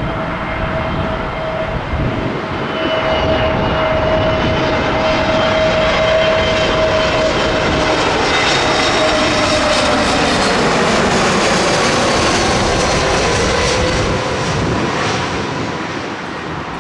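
Airliner's engines passing low overhead: a steady roar with a whine that drops in pitch as it goes by, loudest in the middle and fading near the end.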